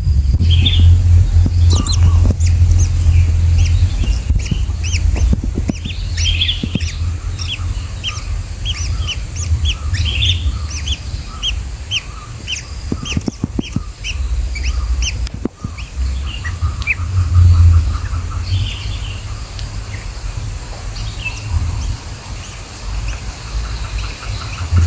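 Bird calls: a run of short, sharp chirps, several a second, through the first half. After that come sparser calls and a quick low chatter, all over a steady low rumble.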